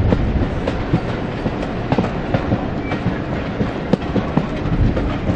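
Railway passenger coaches rolling along jointed track: a steady low rumble, with irregular clicks and knocks as the wheels cross rail joints, heard from an open carriage window.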